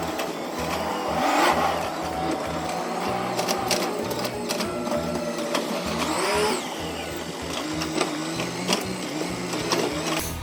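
Recycling truck emptying bins with its automated grabber arm, the engine and hydraulics played back in fast-forward so they run as a rapid mechanical chatter.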